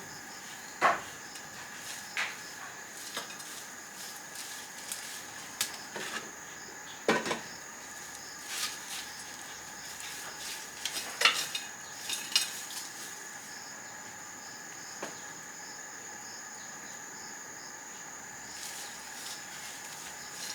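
Dishes and cooking utensils clinking and knocking now and then, the loudest strike about 11 seconds in, over a steady high chirring of insects.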